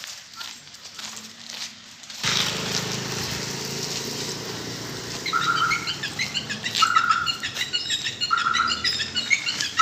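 Small birds chirping. From about halfway through, one short call repeats every second or so over a scatter of quick high chirps. A steady low hum comes in suddenly about two seconds in and continues underneath.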